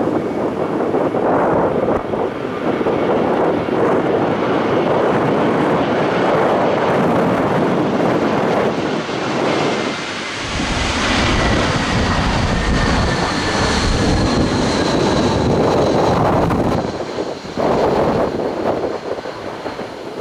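Airbus A320 jet engines passing on landing approach: a whine that slowly falls in pitch and a low rumble that swells about halfway through and fades near the end. Gusty wind buffets the microphone throughout.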